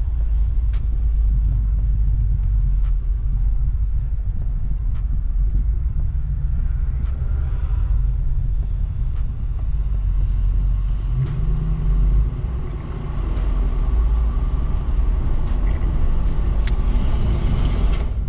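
Steady low road and engine rumble inside a moving vehicle's cab.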